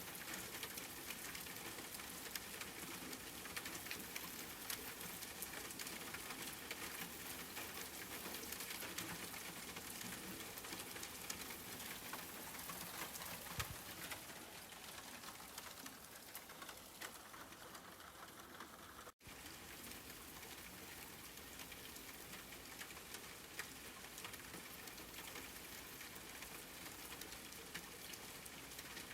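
Steady rain falling, a dense even hiss flecked with the patter of individual drops. The sound cuts out for an instant about two-thirds of the way through.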